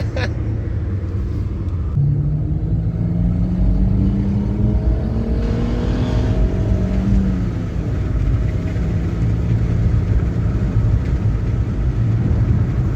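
BMW E46 328i's straight-six engine running on the road, accelerating with a rising engine note from about two seconds in for several seconds, then easing back to a steady run.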